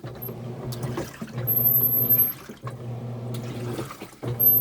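Washing machine running with water sloshing inside: a motor hum comes in repeated spells about a second long with short breaks, some spells carrying a thin high whine. The machine is acting abnormally enough that the owner fears it will burst.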